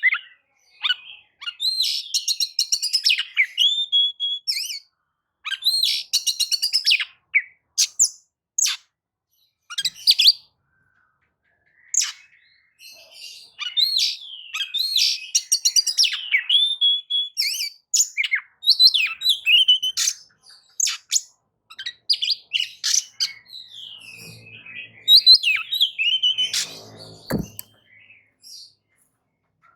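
Oriental magpie-robin (kacer) singing its loud, varied song: phrases of rapid chirps, trills and sliding whistles in bursts separated by short pauses.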